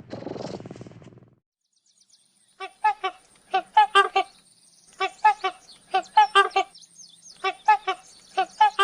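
An animal calling in repeated quick groups of short, sharp chirps, about six groups with two to four chirps each, over a faint steady high-pitched tone. In the first second a low rough sound dies away before the calling starts.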